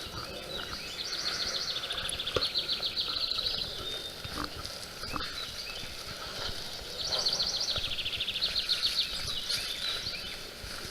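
A songbird's high, rapid trill, sung twice a few seconds apart, each about two and a half seconds long and dropping slightly in pitch after it starts.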